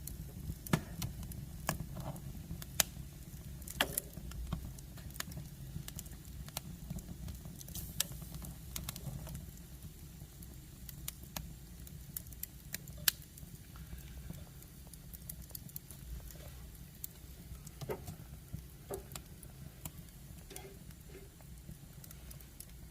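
Wood fire burning in a fireplace stove: irregular sharp crackles and pops from the logs over a low, steady rumble of the flames.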